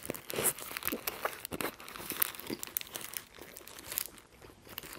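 Close-miked biting and chewing of a Roadhouse King burger with bacon and onion rings: a run of crisp, crackly clicks mixed with the paper wrapper crinkling in the hands, busiest in the first few seconds and thinning out toward the end.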